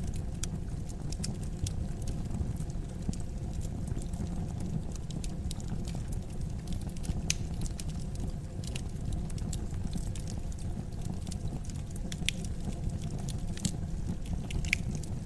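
Wood fire crackling in a fireplace: a steady low rumble of flame with frequent, irregular sharp pops and crackles.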